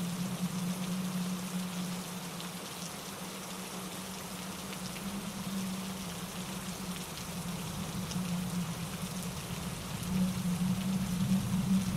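Steady rain falling, with scattered individual drops ticking over a continuous low rush. The rush grows louder about ten seconds in.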